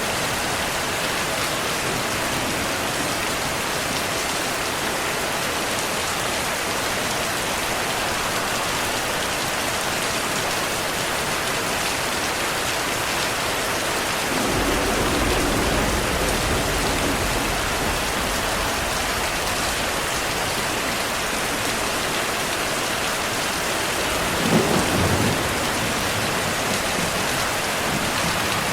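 Heavy rain falling steadily, with a low roll of thunder about halfway through and a shorter, sharper thunder rumble near the end.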